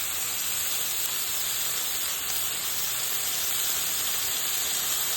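Chicken breast pieces sizzling steadily in butter in a pan over high heat. The cooking water has boiled off and the meat is browning.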